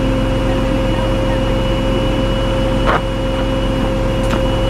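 Heavy tow truck engine running steadily, with a steady high whine over it. There is a sharp click about three seconds in and a fainter one near the end.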